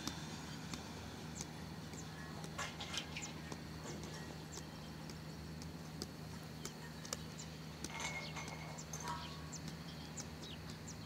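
Birds chirping in short, high calls scattered throughout, over a steady low hum.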